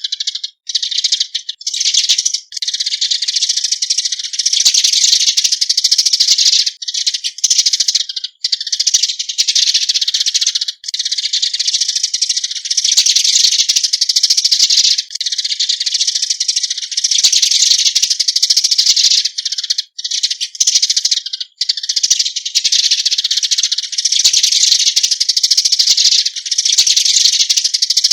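Eurasian tree sparrows chattering as a flock: a dense, continuous stream of high, rattling chirps, broken by a few brief gaps.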